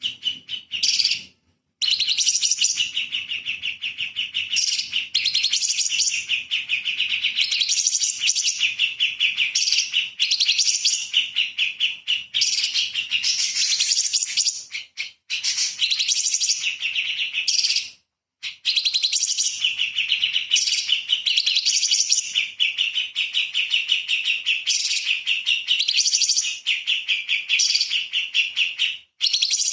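Cucak cungkok leafbird singing a fast, dense run of sharp, chattering notes, nearly continuous, with a few brief breaks.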